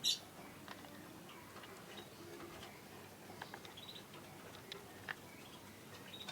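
Small plastic clicks and ticks of a cap being fitted and screwed onto a plastic bottle, scattered through and faint. A short, sharp high-pitched sound comes right at the start.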